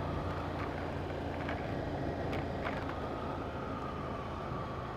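Ducati Monster 797's air-cooled L-twin engine running steadily while riding, with an even rumble and no revving.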